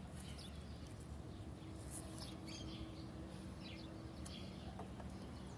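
Faint outdoor ambience with scattered short bird chirps, and a faint steady low hum through the middle.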